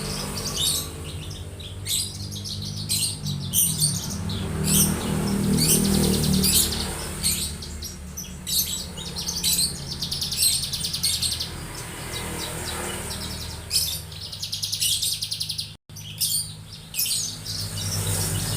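Young Javan bushlark (Mirafra javanica) singing: a long, busy run of high chirps and fast rattling trills with short pauses between phrases. A steady low hum runs underneath, and the sound cuts out for an instant about three-quarters of the way through.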